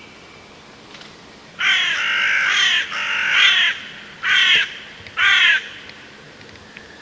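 A bird calling four times with loud, harsh caws: two longer calls, then two short ones.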